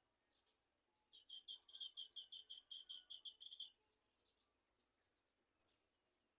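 A bird calling: a rapid, even series of about fifteen high notes, roughly six a second, lasting a couple of seconds, then a single short, sharper chirp near the end.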